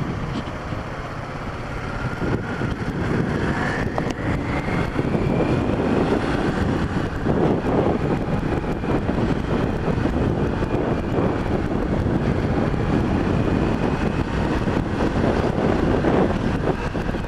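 Motorcycle engine running under way with heavy wind noise on the microphone, the pitch rising as it accelerates over the first few seconds, then holding steady at cruising speed.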